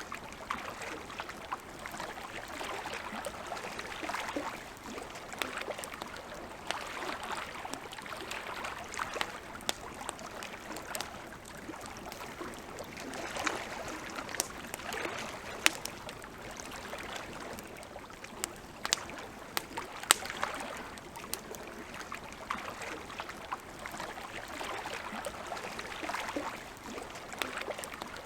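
Wood fire crackling, with frequent sharp pops, two louder ones in the middle. Under it, a washing noise of lapping water swells and fades every few seconds.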